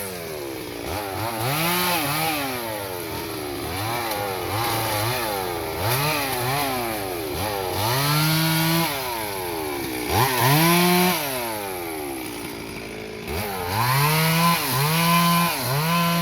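Stihl MS 382 two-stroke chainsaw being revved over and over, its engine pitch rising sharply and dropping back. A few revs are held for about a second, and it settles to a short idle near the middle. Toward the end come quick, regular throttle blips.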